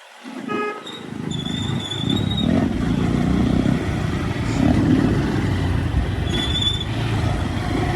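Motorcycle being ridden, its engine running steadily after a brief lull at the start, with a short high squeak twice.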